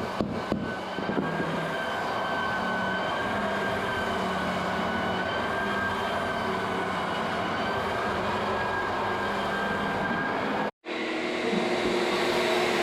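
An electric machine running steadily, a wavering whine over a dense rumble, with a few sharp clicks at the start. It cuts off abruptly near the end and a different steady machine noise takes over.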